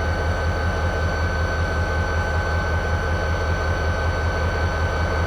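Diesel locomotive engine idling with a steady, evenly pulsing low rumble and a steady high whine over it, while the train stands waiting to switch cars.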